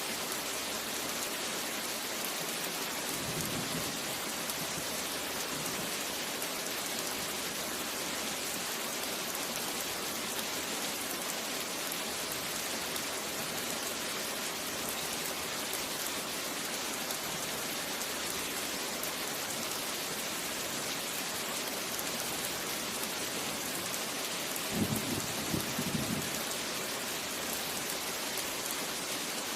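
Steady rain falling, a continuous even hiss. A faint low rumble of thunder comes a few seconds in, and a louder, short rumble of thunder comes near the end.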